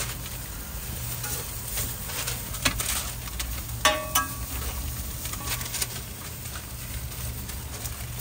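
Toast fillings frying on a street-stall griddle: a steady sizzle with scattered clicks, and a short ringing metal clink about four seconds in. A low steady hum runs underneath.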